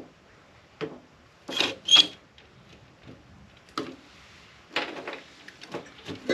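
Scattered clicks, scrapes and clinks of hand tools and small metal parts being handled while a UPS battery backup unit is taken apart. About six short sharp sounds, the loudest a pair about two seconds in.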